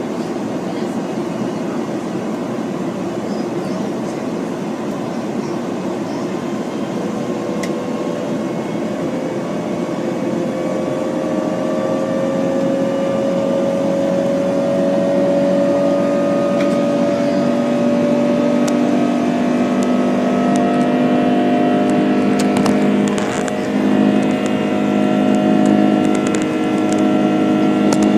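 Airbus A330-300 jet engines heard from inside the cabin: a steady rumble, joined about seven seconds in by whining tones that slowly rise in pitch and multiply as the engines spool up and get louder. Light rattles come near the end.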